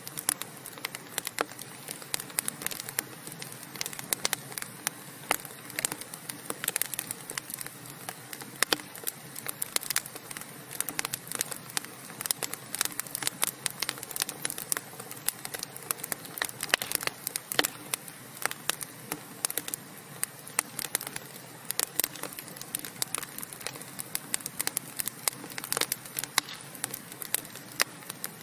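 Wood fire of burning logs crackling: a dense, irregular run of sharp pops and snaps over a steady hiss.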